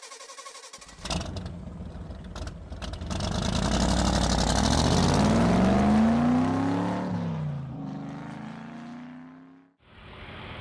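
A motor vehicle engine revs up, rising in pitch as it grows louder, then drops in pitch and fades away. A few sharp clicks come in the first seconds, and the sound cuts off abruptly near the end.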